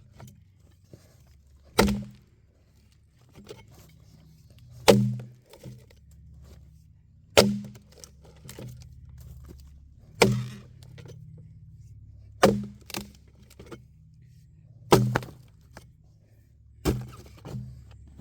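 An axe hewing a wooden log: seven heavy chops about every two and a half seconds, several followed by a lighter knock.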